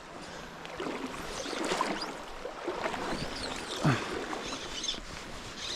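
River water flowing and splashing, with small irregular sloshes.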